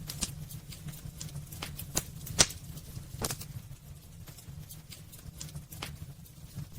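Wood fire burning in a fireplace, crackling with irregular sharp pops, the loudest about two and a half seconds in, over a low steady rumble.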